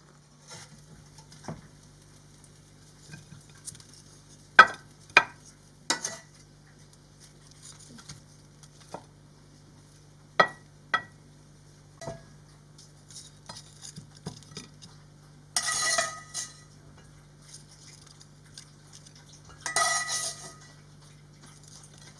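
Metal cutlery clinking and scraping against dishes at a meal. There are a handful of sharp clinks with a short ring, and two longer scrapes, one about two-thirds of the way in and one near the end, over a faint steady low hum.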